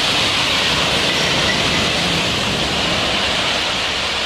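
A loud, steady rushing noise with no pitch or rhythm.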